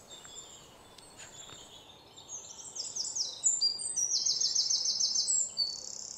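Birds chirping: faint calls at first, then from about two seconds in a loud, fast series of high, repeated downward-sweeping chirps.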